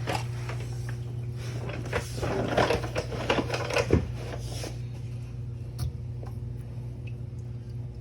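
Short clicks and rattles of hand tools and parts being handled, bunched between about two and five seconds in, over a steady low hum.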